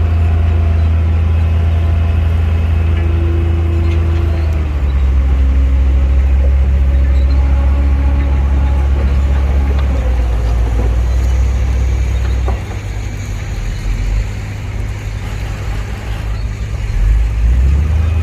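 Heavy diesel earthmoving machinery running with a deep, steady drone; the engine note steps down a couple of times, eases off about two-thirds of the way through and builds again near the end.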